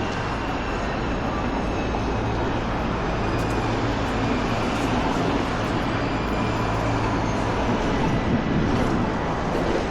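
Steady traffic on a busy city street: a continuous rush of passing vehicles under a low engine hum.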